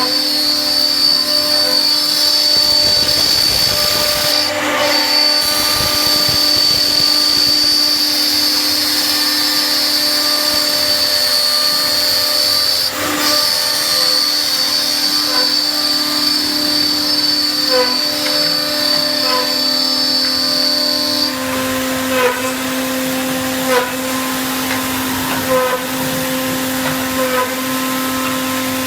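WoodMaster WM-6CNC six-head CNC mortising machine running, its spindle motors giving a steady multi-tone whine. About 21 seconds in the highest whine stops, and sharp clicks then recur at roughly one-and-a-half-second intervals over the lower hum.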